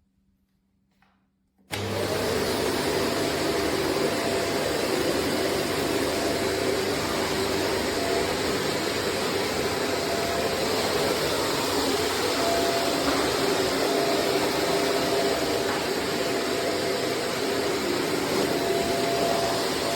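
Shark corded upright vacuum cleaner switching on suddenly almost two seconds in, then running steadily.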